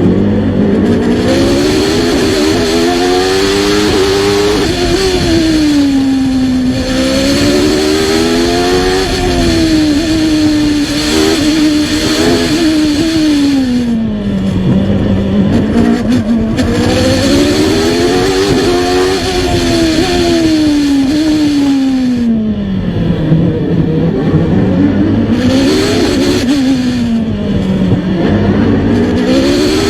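A 1993 Formula One car's engine heard onboard. It revs up hard and drops back over and over as the car accelerates out of corners and lifts or brakes into them.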